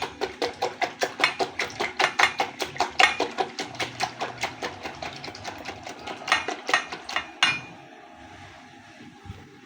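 Egg-and-milk custard mixture being beaten vigorously by hand, the utensil clicking rapidly against the bowl about six strokes a second, stopping about seven and a half seconds in.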